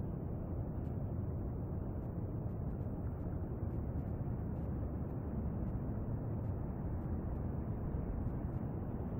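Steady low rumbling noise with no distinct events, picked up by a compact camera's built-in microphone, with a few faint ticks over it.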